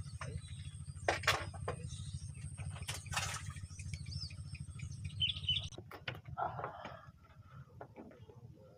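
Small birds chirping a few times over a low droning hum; the hum and a thin high steady tone stop abruptly about six seconds in. A few short noises come in between.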